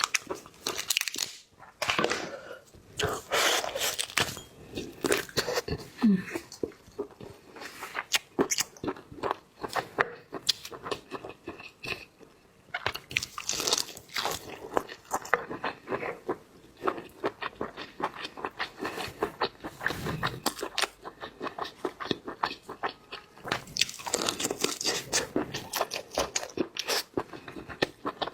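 A person biting, crunching and chewing seafood: repeated wet crackles and crunches in several heavier bursts.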